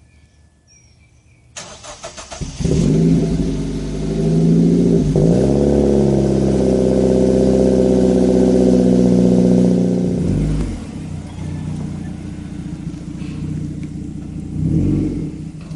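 Mazda3 with a CorkSport cat-back exhaust cold-starting: the starter cranks for about a second, the engine catches and settles into a loud, steady high cold-start idle. About ten seconds in the idle drops to a lower, quieter note, with a brief swell near the end.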